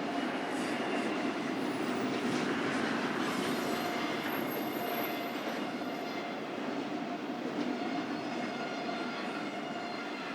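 BNSF intermodal freight train's cars rolling steadily past, with thin steady wheel tones over the rolling noise and a brief high wheel squeal about halfway through.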